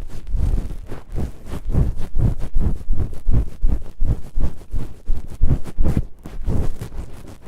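Black foam pad rubbed and scratched against the microphone in quick, uneven strokes, about three a second. Each stroke is a rough scrape with a deep, muffled rumble, and the strokes ease off near the end.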